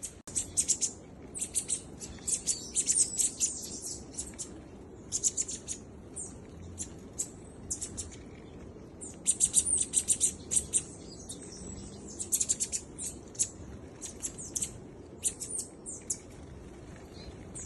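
Small birds chirping: clusters of rapid, very high-pitched chirps, several in a row, with short pauses between the clusters.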